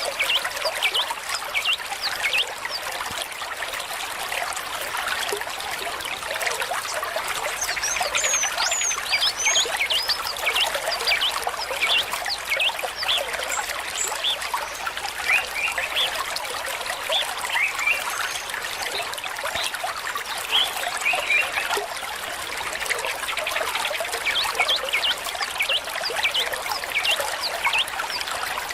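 A stream trickling and babbling steadily, full of quick bubbling plinks of water.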